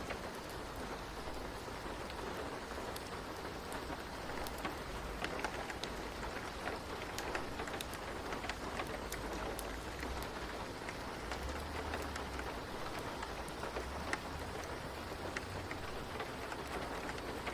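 Steady rain falling on a surface, with many scattered raindrop taps over an even hiss.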